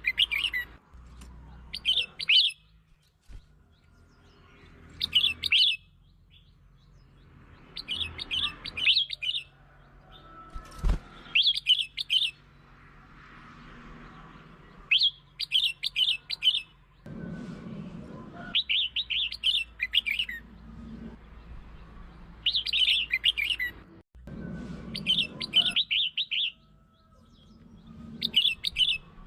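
Red-whiskered bulbul singing: short, bright warbling phrases repeated every few seconds, the song used to lure and provoke other bulbuls.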